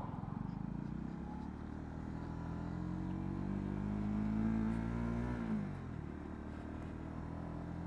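Honda CB125R's single-cylinder 125 cc engine pulling under acceleration, its note rising steadily for a few seconds and then falling away sharply about five and a half seconds in, before it settles into a steady lower note.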